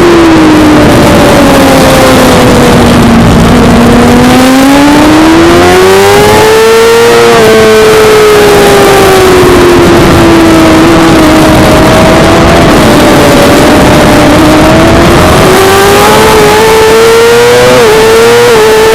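Suzuki GSX-R600 inline-four engine running hard at high revs under way, with dense wind rush. Its pitch sinks over the first few seconds, climbs for several seconds, eases down, then climbs again with a brief dip near the end.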